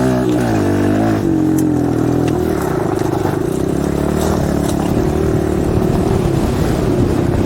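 Small 110cc four-stroke dirt bike engine pulling away: its pitch rises and wavers through the gears for the first couple of seconds, then it runs at a steady speed.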